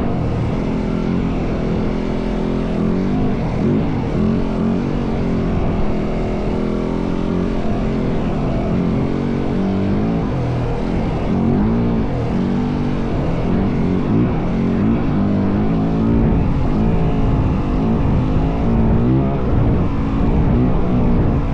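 Yamaha WR450F dirt bike's single-cylinder four-stroke engine running under way, its pitch rising and falling over and over with the throttle, over a steady rush of noise.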